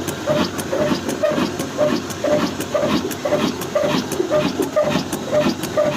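22 HP diesel engine running steadily with an even, slow beat of about three pulses a second.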